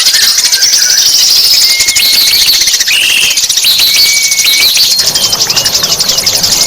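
Songbird song from a masteran training recording: short clear whistled notes, some held level and some sliding, over a fast, steady, high-pitched buzzing rattle.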